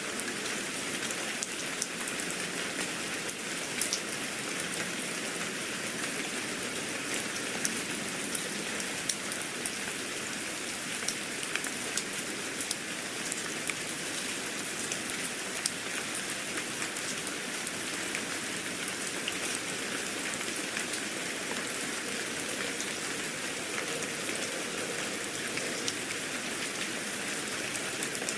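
Steady rain falling on a surface, a continuous hiss dotted with the small ticks of individual drops.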